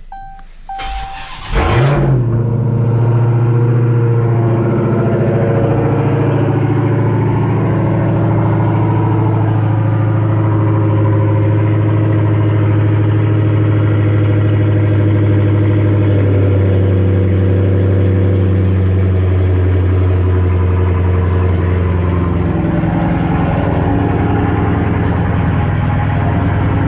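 Dodge Hellcat's supercharged 6.2-litre Hemi V8 cranking and firing up about two seconds in with a quick flare of revs, then idling loud and steady through its resonator-deleted exhaust with the mufflers still on. The idle settles lower near the end.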